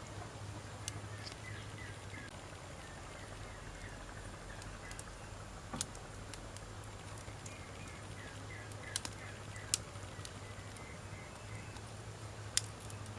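Wood campfire crackling, with scattered sharp pops, the loudest about halfway through and near the end. A bird chirps in two runs of short notes, early on and again in the second half, over a low steady hum.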